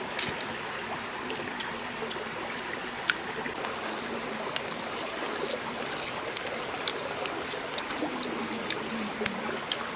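Stream water flowing steadily, with scattered sharp clicks throughout.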